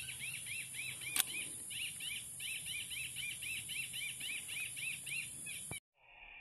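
A fast, steady run of repeated rising-and-falling bird chirps, about five a second, over a constant high insect hiss. A single sharp crack sounds about a second in, and the sound cuts off abruptly near the end.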